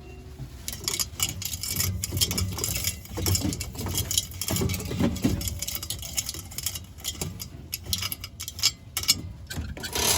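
Fast ASMR rustling, tapping and scratching of packaged store items by hand: a dense, irregular run of small clicks and crinkles.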